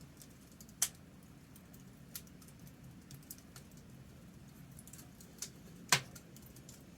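Wood fire crackling: scattered small ticks over a low steady hum, with two loud sharp pops, about a second in and near the end.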